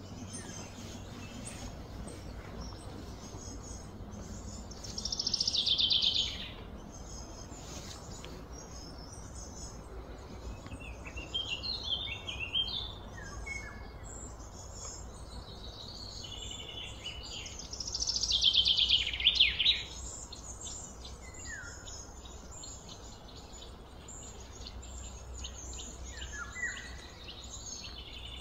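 Birds calling outdoors: two loud, rapid trills that slide down in pitch, about five seconds in and again near the middle, with scattered short chirps between, over a steady low hum.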